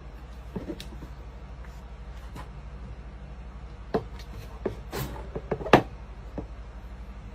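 A few sharp knocks and clicks over a steady low hum, the loudest knocks about four, five and six seconds in.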